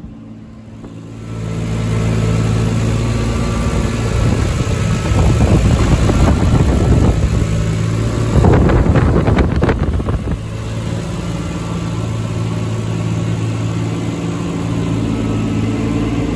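Turbocharged Toyota 2JZ-GTE inline-six in a Nissan S13 running loud and steady. A rougher, noisier stretch of about six seconds sits in the middle, with sharp cracks near its end, before the steady note returns.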